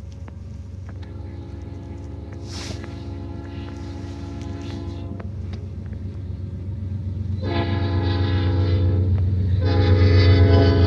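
Locomotive horn sounding in long blasts, a chord of several steady tones: one of about four seconds, a second shorter one, and a third starting near the end. Under it the low rumble of the train grows steadily louder as it approaches.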